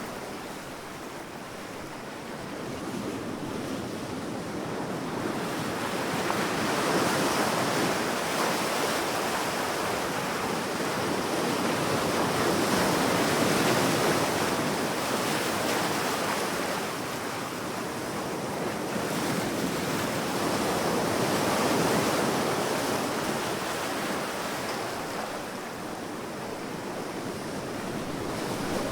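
Sea waves breaking and washing on a beach, a continuous surf sound that swells and fades every several seconds.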